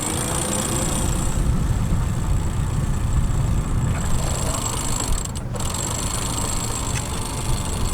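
Catamaran's engines running steadily, a low even rumble.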